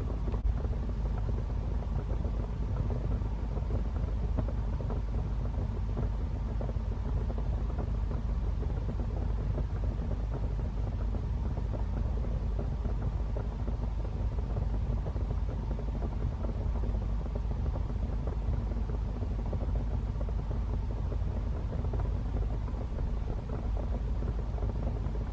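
Wood fire burning in a fireplace: a steady low rumble of flames with many small crackles.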